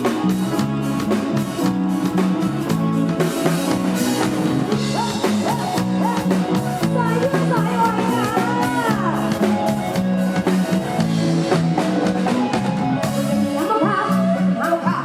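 Live Isan pop band music with a steady drum-kit beat and bass, and a voice singing over it.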